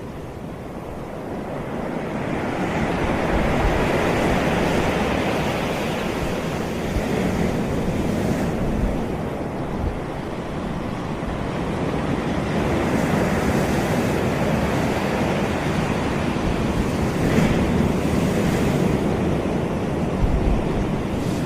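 Surf on a tropical beach: waves washing in and breaking as a continuous rush that swells and eases over several seconds, with low wind rumble on the microphone.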